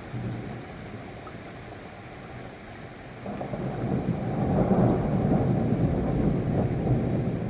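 Steady rain, with a low rumble of thunder that swells up about three seconds in and keeps rolling.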